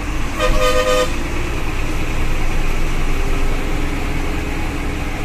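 A vehicle horn sounds once, briefly, about half a second in, over the steady low rumble of a bus's engine and the road.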